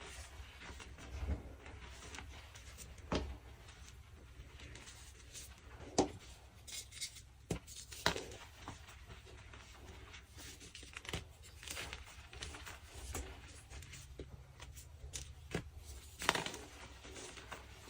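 Deep-dyed BSN gym chalk blocks being crushed and crumbled by hand: irregular crisp crunching and crackling, with a few louder sharp cracks as pieces break.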